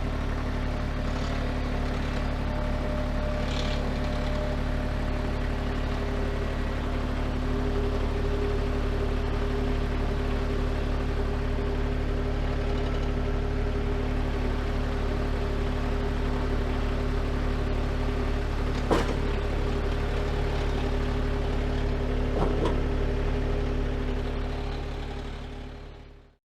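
A vehicle engine running steadily with a low, even drone, with two short sharp clicks late on, then fading out near the end.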